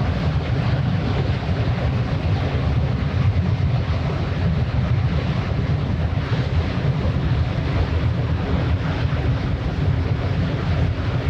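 Steady low drone of a passing ship's engine, with a constant hum through it. Wind buffets the microphone throughout.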